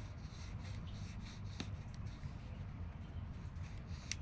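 Light handling noises, rustling with a couple of sharp clicks, over a steady low hum.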